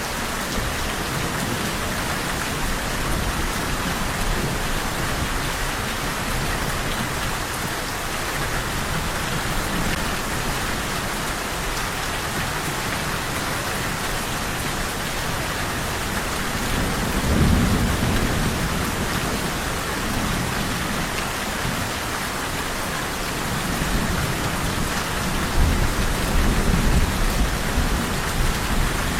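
Steady heavy rain falling, with low rumbles of thunder: one a little past halfway, and another building near the end.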